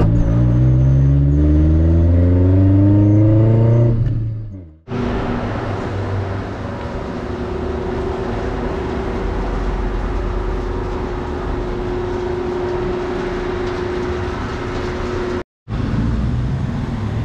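Car engine, its exhaust open behind the catalytic converter with no muffler, revving up with its pitch rising for about four seconds, then fading out. After a cut, a steady running noise with a constant hum lasts about ten seconds.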